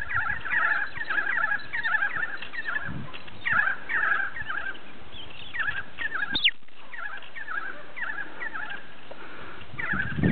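Birds calling: short, rapid chirping phrases repeated over and over, with one sharp falling whistle about six and a half seconds in.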